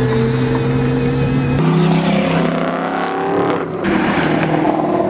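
Performance car engine accelerating: a loud steady drone changes abruptly about a second and a half in, then the pitch climbs as the engine revs up, drops briefly near the end as it shifts, and pulls again.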